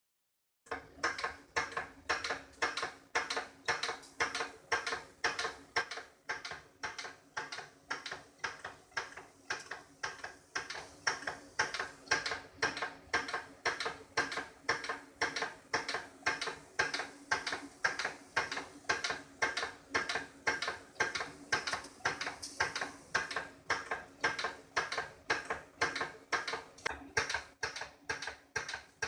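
Vintage toy steam engine running on live steam, beating out an even mechanical rhythm of about two clicks a second over a steady hum. It starts suddenly under a second in.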